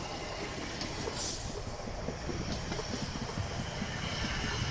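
Bombardier Aventra class 701 electric multiple unit passing close by at speed: a steady rush of wheels on rail, slowly growing louder, with a faint high whine running through it and a brief hiss about a second in.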